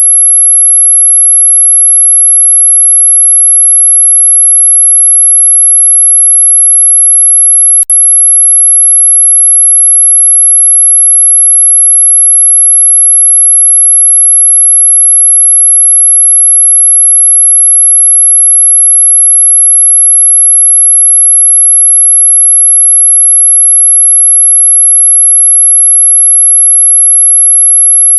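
A continuous, loud, very high-pitched pure tone: a synthetic sine-wave 'anti-mosquito' repellent sound that holds one steady pitch. About eight seconds in it drops out for an instant with a brief click.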